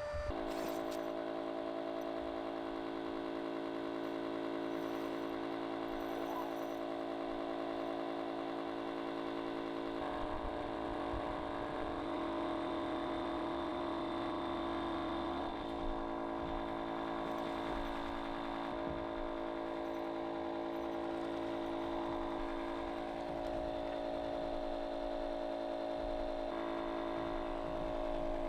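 Electric air pump running steadily, its motor tone shifting a few times as it inflates an air tent.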